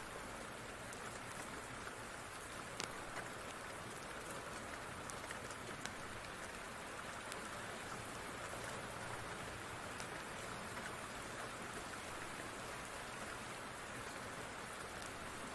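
Steady rain, an even hiss of falling drops, with a few scattered sharp ticks over it.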